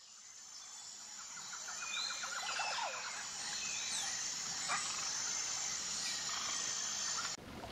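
Outdoor nature ambience: a steady high insect drone with scattered short chirps and a brief rattling trill, fading in over the first two seconds and breaking off just before the end.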